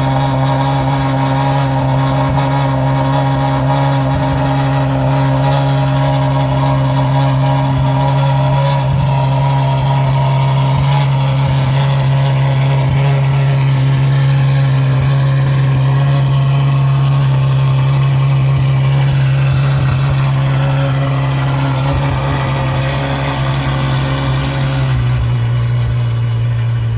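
Ferrari F12's V12 with a catless straight-piped exhaust, running loud at a steady fast cold-start idle. About 25 seconds in the idle steps down to a lower pitch as the fast idle comes down.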